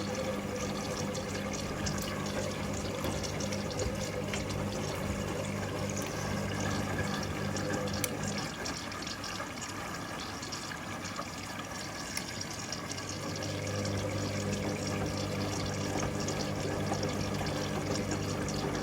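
Hoover Link washing machine in its final rinse: water running and splashing in the drum over a steady motor hum. The hum stops about eight seconds in and comes back about five seconds later.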